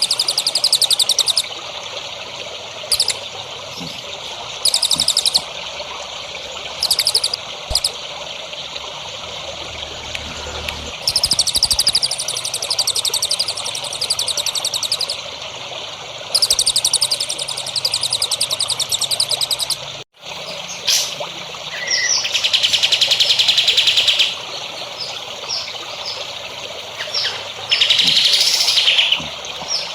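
Songbirds singing in short, rapid trilled phrases a second or two long, repeated over a steady trickle of running water. About twenty seconds in the sound drops out for a moment, then the song comes back in louder, fuller phrases.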